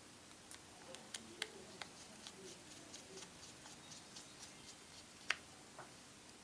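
Faint light clicks and ticks of a small screwdriver and the iPhone 4's back cover and screws being handled as the phone is closed up. Through the middle it runs as a fairly even patter of about three ticks a second, with a sharper click about five seconds in.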